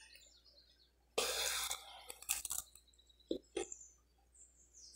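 Eating toasted bread with margarine close to the microphone: a sudden noisy crunch of the bite about a second in, then a few short wet clicks and smacks of chewing.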